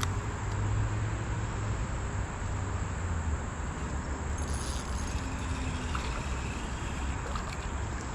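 Steady outdoor background noise: a continuous low rumble under an even hiss, with faint insect chirring about halfway through.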